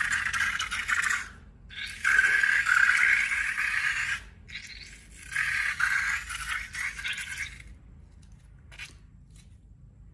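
Slime being worked by hand, a dense crackling scrape in three long strokes that then stops, with a couple of faint clicks near the end.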